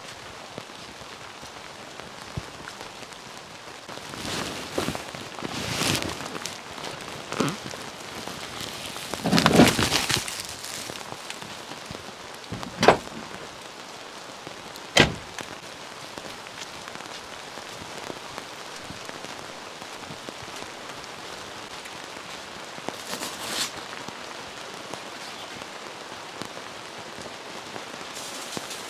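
Steady rain falling, with a few louder rustles in the first half and two sharp knocks near the middle.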